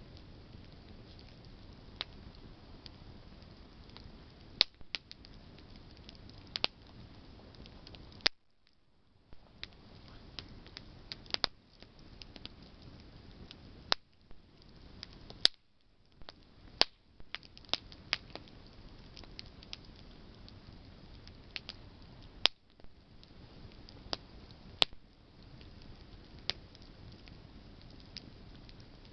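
Campfire of burning branches crackling: irregular sharp pops and snaps, a few of them loud, over a steady low hiss of the burning.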